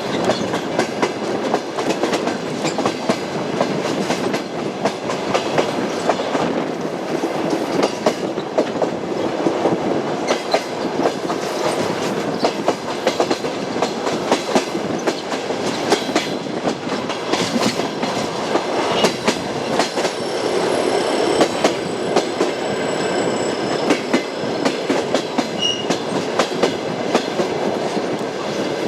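Train wheels clacking over rail joints in a quick, irregular run of knocks over the steady rumble of a moving railway car.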